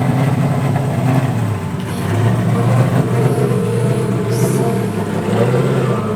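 Drift car engines running, the pitch rising and falling again and again as they rev.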